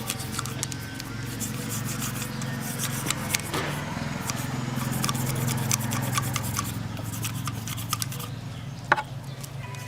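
Hand work on parts: rubbing and scraping with many short clicks, over a steady low hum.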